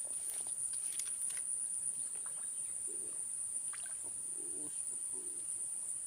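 Steady high-pitched drone of insects, with a few faint clicks in the first second and a half.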